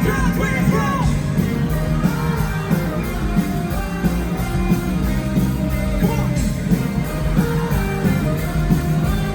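Live pop-rock band performance: a male lead voice singing over electric guitar, bass and drums, played loud through the concert PA.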